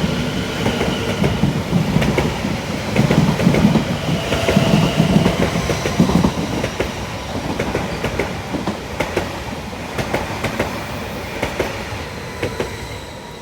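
Greater Anglia Class 745 electric train passing through at speed, wheels clicking over rail joints, loudest about three to six seconds in and then fading, with departing London Overground Class 710 trains mixed in.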